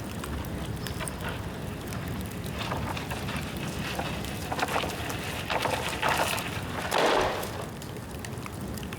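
Bamboo bonfire burning, crackling and popping over a steady low rumble, with several louder hissing bursts, the loudest about seven seconds in. The bamboo is still damp from rain.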